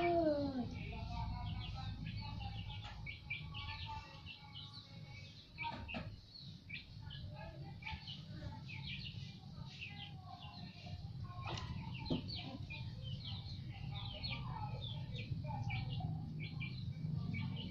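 Small birds chirping over and over, many short high chirps, over a steady low rumble; a short falling call at the very start is the loudest moment.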